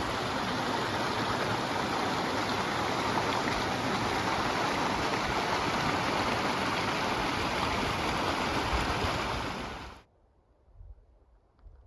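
Mountain creek rushing steadily, an even water noise that cuts off suddenly near the end.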